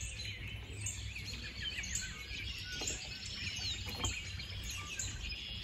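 Several small birds chirping and calling in quick, scattered notes over a steady low background noise.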